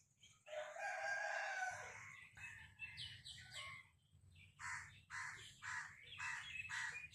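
A rooster crows once, one long call starting about half a second in. Small birds chirp briefly, then crows caw repeatedly, about two caws a second, through the second half.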